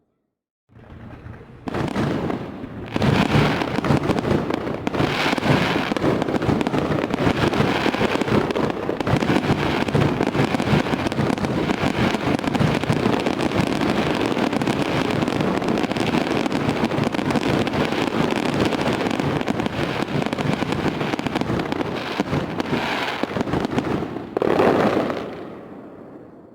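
Fireworks display: a dense, unbroken barrage of bangs and crackling that starts about a second in and builds up over the next couple of seconds. It ends with one louder burst near the end, then fades out.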